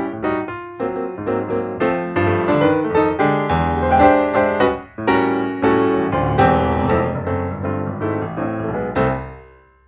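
Piano playing a flowing passage of chords and melody notes, closing on a chord that rings and fades away near the end.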